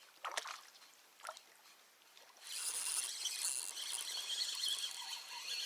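A popper lure splashing twice on the water about a second apart, then the steady whirr of a spinning reel being cranked from about two and a half seconds in.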